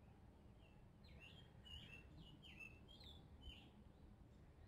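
Near silence with faint birdsong: a small bird gives about ten quick chirps, most sliding down in pitch, from about a second in to past the middle.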